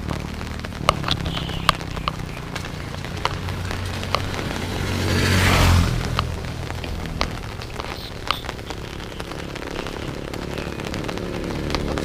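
Rain falling, with scattered sharp drops tapping close by. About halfway, a rushing hiss swells up and cuts off, as of a vehicle passing on the wet road.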